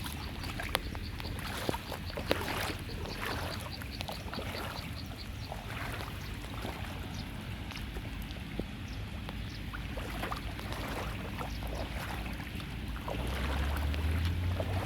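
Water splashing and sloshing around a clogged street drain, with scattered sharp clicks and knocks; a low rumble swells near the end.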